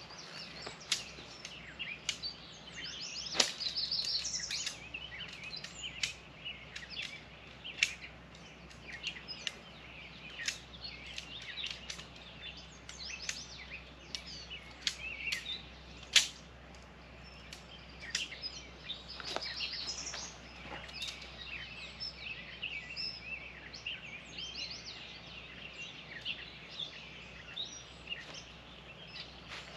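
Birds chirping and singing, with several rapid trills, punctuated by a few sharp clicks or knocks, the loudest about halfway through.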